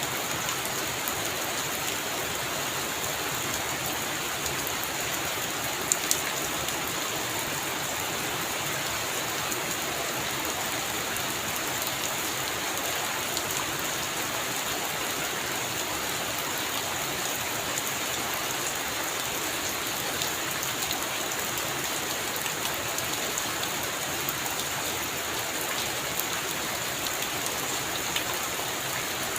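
Heavy rain falling steadily on a roof, an even hiss with many sharp drop ticks and one louder tap about six seconds in.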